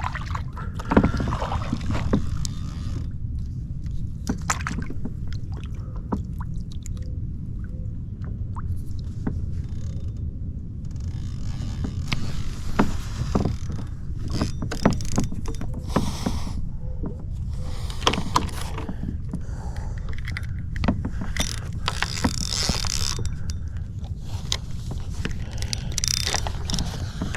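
Kayak being paddled: water swishing off the paddle blades every couple of seconds, with scattered knocks and clicks of the paddle and gear against the plastic hull, over a steady low rumble.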